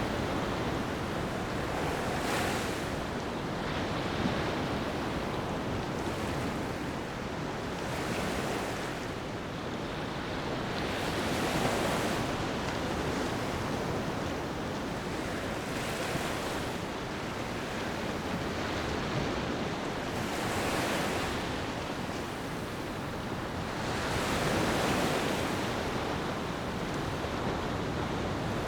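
Ocean waves breaking and washing up a beach, a swell rising every four or five seconds over a steady surf hiss.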